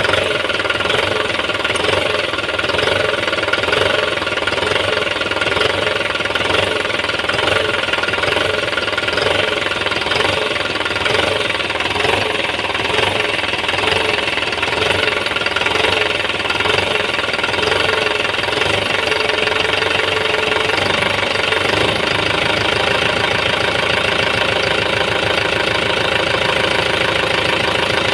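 Freshly rebuilt Kubota M9540 tractor's four-cylinder diesel engine running steadily at idle after an overhaul for white smoke from the breather, with a slight change in its note about three-quarters of the way through.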